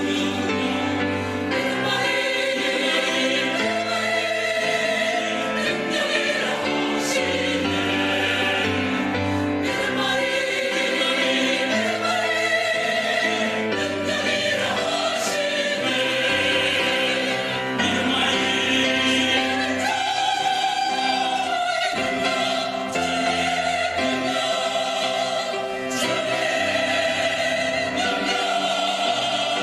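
Church choir singing a Korean anthem in harmony with instrumental accompaniment, sustained chords moving from one to the next.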